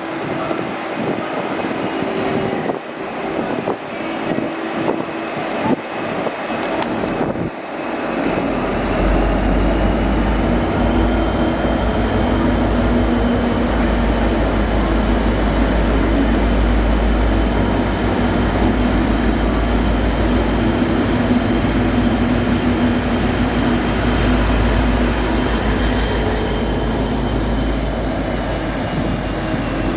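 N-class diesel-electric locomotive's EMD V12 two-stroke engine powering up about eight seconds in as the engine moves off light. It runs with a loud deep rumble, a steady hum and a high whine that rises in pitch shortly after and eases back near the end.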